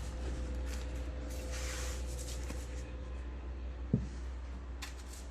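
Packaging being handled: a rustle of paper or plastic, a soft knock about four seconds in, and a few light clicks near the end, over a steady low hum.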